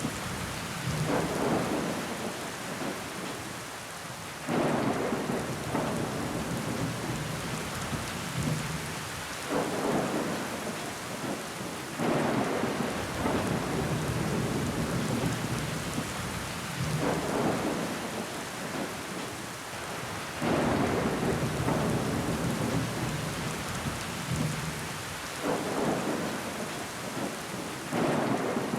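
Rain pattering on window glass, with water running down the pane. The rain swells into louder surges every few seconds, several of them starting suddenly.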